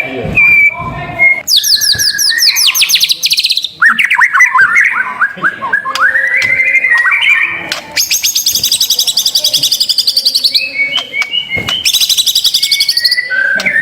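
White-rumped shama singing a varied song: very fast high trills alternating with runs of repeated whistled notes.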